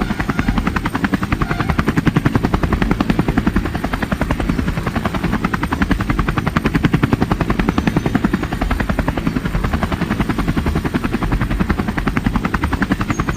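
Helicopter rotor blades chopping in a fast, even rhythm, loud and steady throughout.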